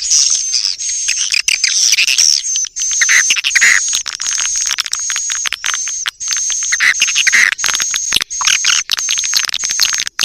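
Swiftlet lure call: a dense stream of rapid, high-pitched swiftlet chirps and twitters over a steady high tone. This is the kind of call sound played to draw swiftlets into a nesting house.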